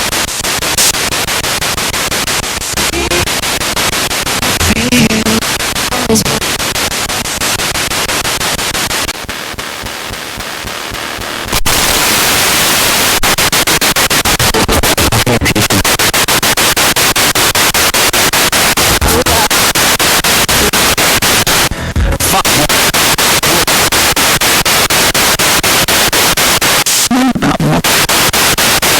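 Spirit box radio sweeping rapidly through stations: loud static hiss chopped by a fast, even ticking of the scan, with brief snatches of voices and music breaking through. It drops quieter for a couple of seconds around the middle, then comes back louder.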